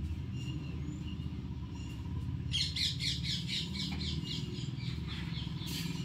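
A bird chirping in a quick run of repeated high calls a couple of seconds in, over a steady low hum.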